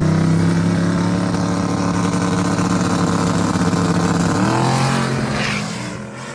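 Drag-racing car engines held at steady high revs on the starting line. A little over four seconds in they rise in pitch as the cars launch, and the sound fades as they pull away.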